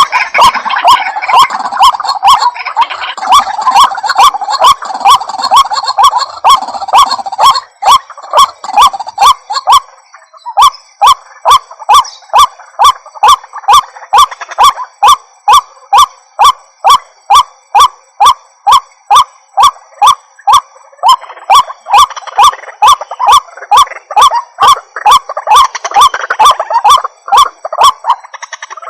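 White-breasted waterhen (Amaurornis phoenicurus) calling, a long unbroken series of repeated 'kruwak' notes, a little over two a second, with a brief break about ten seconds in. This is the call played as a lure to draw waterhens in.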